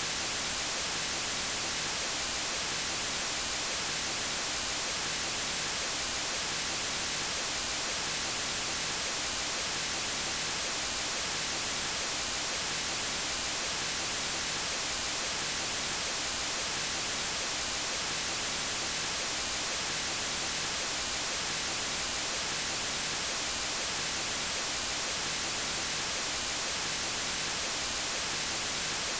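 Steady synthetic white noise: an even, unbroken hiss, brightest in the high end.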